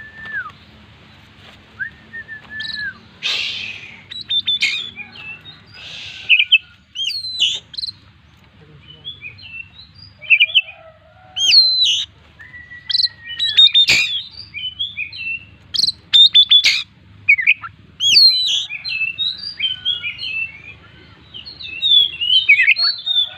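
Oriental magpie-robin (kacer) singing continuously: a varied run of clear whistles, quick chirps and downward-sweeping notes, full of phrases mimicked from other birds.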